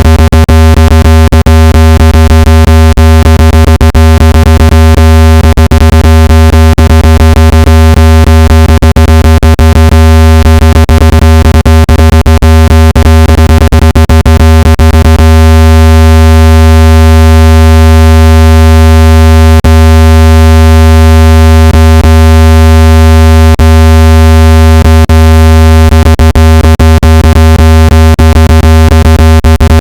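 Loud, steady, low synthetic tone with a ladder of overtones, played to shake water out of a phone or earbud speaker. It is broken by rapid crackling clicks, which grow sparser about halfway through.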